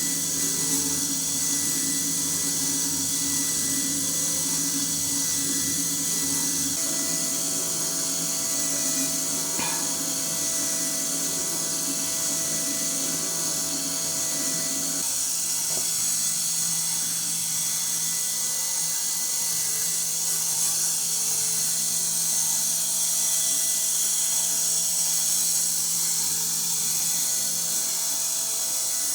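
TECHING DM13 model four-cylinder engine kit running on its small electric motor: a steady whirring with the mechanism's rattle. A lower part of the sound drops away about halfway through.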